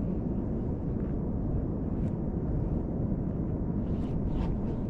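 Steady low rumble of wind and moving water on an outdoor microphone, with a few faint ticks about two seconds in and again near the end.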